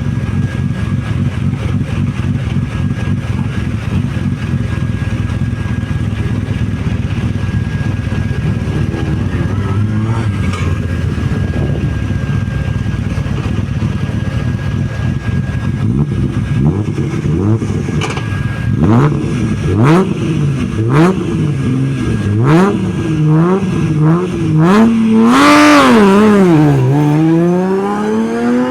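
Rally car engine idling roughly at the start line, then revved in quick repeated blips with sharp pops between them, held at high revs, and accelerating away in first gear as the car launches from the start.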